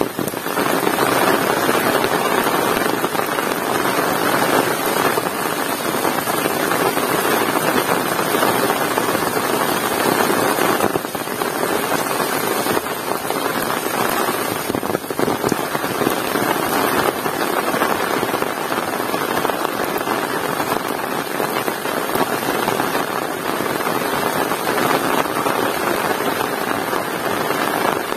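Heavy rain pouring steadily, a dense even hiss of rain on surfaces that swells and eases slightly.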